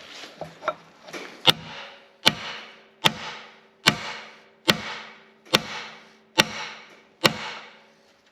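Hammer blows on metal, eight evenly spaced strikes a little under a second apart, each ringing out afterwards, with a few lighter taps first. A part is being driven down onto a mower shaft.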